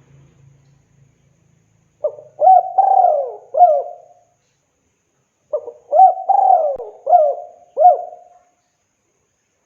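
Spotted dove (tekukur) cooing its song, calling to a female: two phrases of quick coos, the first about two seconds in and the second about halfway through, each note with a short upward hook.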